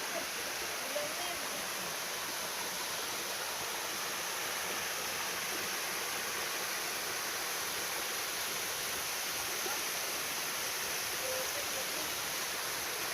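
Steady rush of flowing water, like a stream or small waterfall, with faint distant voices now and then.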